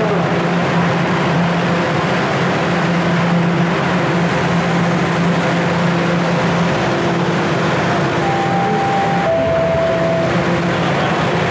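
Steady loud noise of a subway platform, with a low hum throughout. Two held tones sound about eight seconds in, the second one lower than the first.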